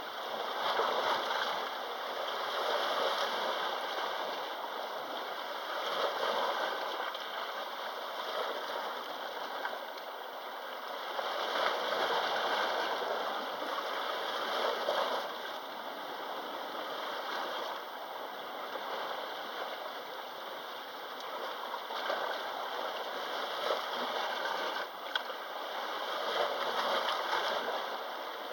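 Sea waves washing against the shore: a steady rushing noise that swells and eases every few seconds.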